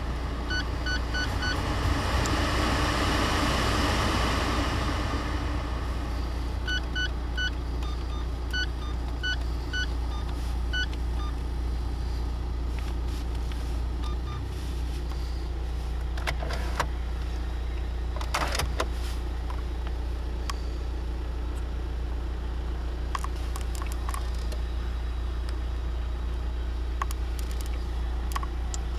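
2006 Škoda Superb 1.9 TDI with a steady low hum throughout. In the first ten seconds there are repeated short electronic beeps from the car's warning chime. A few sharp clicks come around the middle.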